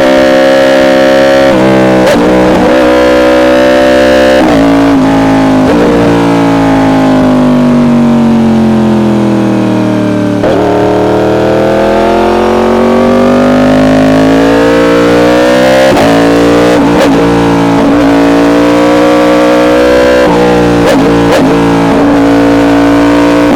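Yamaha R1 inline-four engine with an SC-Project exhaust running at steady high revs. Its pitch then falls smoothly for several seconds as the bike slows and climbs again as it pulls back up to speed. Short sharp cracks come near the start and several times in the last few seconds.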